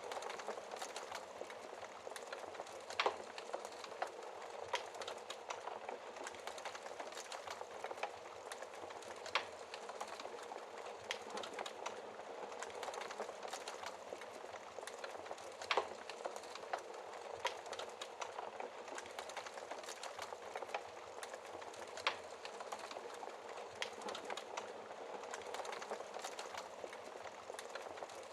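Wood fire burning in a fireplace: a steady hiss of flames with dense small crackles, and a few louder pops every several seconds from the burning logs.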